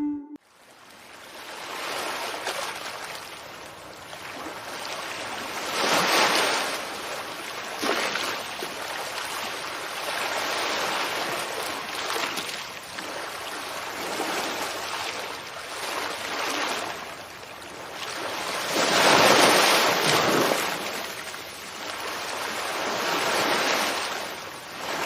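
Ocean surf washing onto a shore, a steady rush that swells and falls back with each wave, the biggest swells about six seconds in and around twenty seconds in.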